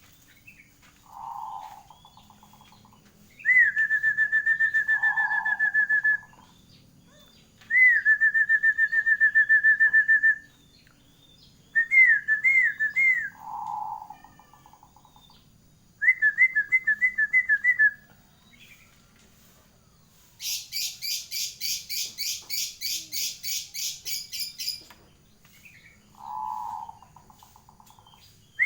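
Zebra dove (perkutut) cooing over and over: trilled, purring phrases about two seconds long with pauses between, mixed with shorter, lower coos. About twenty seconds in comes a different sound for some five seconds, a higher, raspy rapid chatter of several pulses a second.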